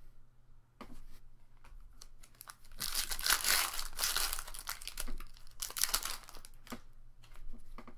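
Foil booster-pack wrapper being crinkled and torn open: a long stretch of tearing and crinkling about three seconds in and a shorter one near six seconds, with light rustles and taps from the cards in between.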